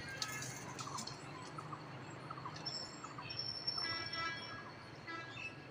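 Small birds chirping and calling in short rising notes, with a cluster of higher, clearer calls around the middle. A few light knocks come in the first second.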